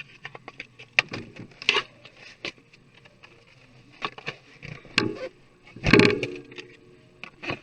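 Clicks, taps and plastic scraping from an NEC laptop being handled and taken apart, with a louder, longer scrape about six seconds in.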